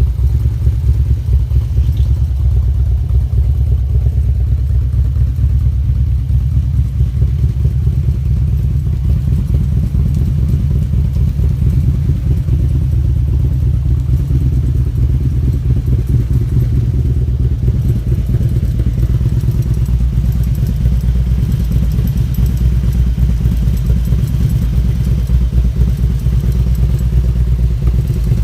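Harley-Davidson V-twin engine idling steadily, parked and warming up.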